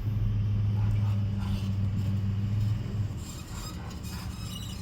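A motor or engine running with a steady low hum that cuts off about three seconds in.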